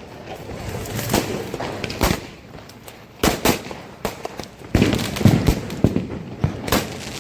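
Firecrackers bursting in a run of sharp, irregularly spaced bangs, some coming in quick pairs, with crackling between them.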